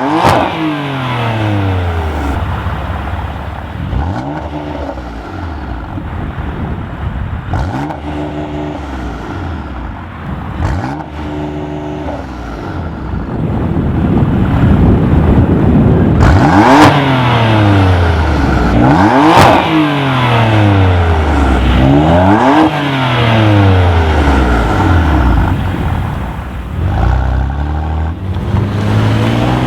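BMW F8x M3/M4's twin-turbo inline-six running through a Fabspeed valved catback exhaust, revving and pulling hard. In the second half the pitch climbs and drops sharply several times as it shifts up through the gears.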